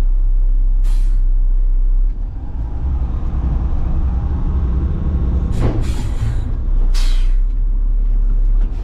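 Front-load garbage truck's diesel engine running, heard from the cab, its note changing about two seconds in. Several short hisses of released air from the air brakes come through, four in all.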